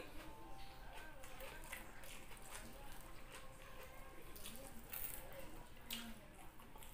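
Close-up eating sounds: wet chewing and mouth clicks from a mouthful of fried rice and fried tilapia, with fingers picking and pulling at the crisp-fried fish and a few sharper crackles near the end.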